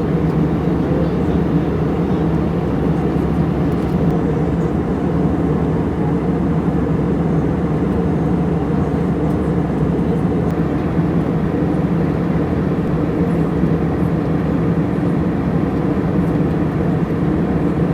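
Steady drone of an Airbus A321-200 heard inside the passenger cabin: engine and airflow noise, heaviest in the low range, holding even with no changes.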